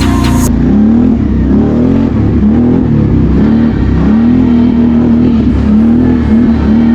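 BRP Outlander 650 ATV's V-twin engine revving up and down under throttle, its pitch rising and falling several times.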